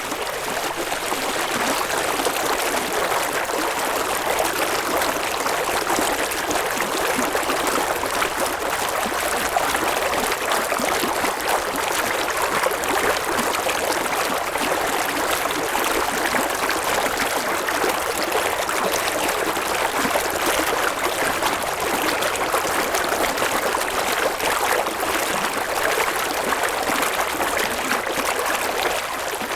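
A river's water flowing and babbling over stones, a steady, even rush.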